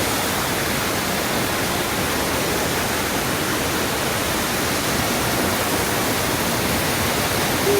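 Anna Ruby Falls, a twin waterfall, rushing: a steady, even roar of falling water.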